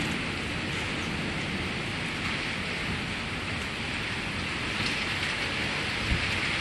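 Steady rain on the carport covers, with a low rumble of thunder underneath.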